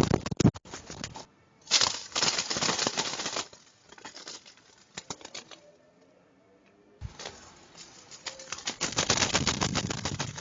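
Wood pigeon wings flapping at the nest in three bouts of rapid clattering, the middle gap the quietest.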